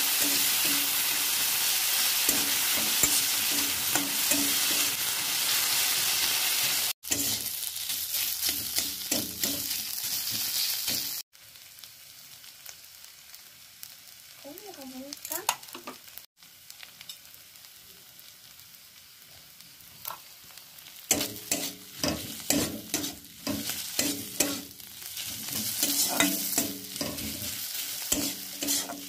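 Scrambled egg with green chillies frying in a wok: a steady sizzle with a spatula stirring and scraping against the pan. The sizzle is loud at first, breaks off abruptly a few times and comes back quieter, and quick scraping strokes grow louder again in the last third.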